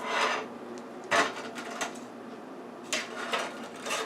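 Kitchen utensils scraping and knocking against a cooking rack as a Cornish hen is turned over: a longer scrape at the start, then a few short clatters and taps.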